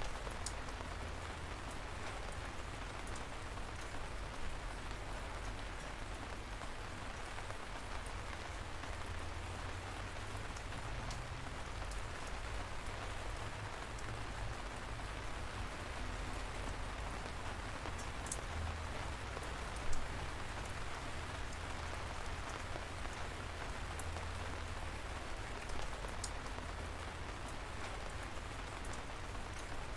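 Steady light rain with scattered individual drops ticking close by, over a low rumble. One louder drop or tap lands about two-thirds of the way through.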